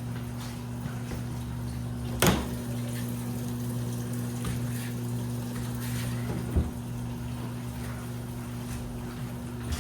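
Washing machine running: a steady motor hum under the sound of water. A sharp knock about two seconds in is the loudest sound, and a dull thump follows a few seconds later.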